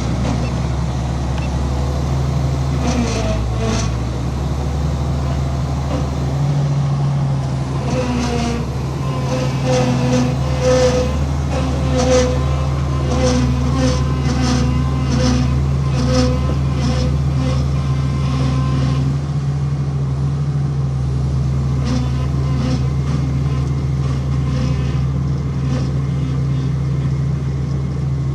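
Heavy diesel engine running steadily under work, with bursts of metallic clanking and clatter about a third of the way in and again near the end.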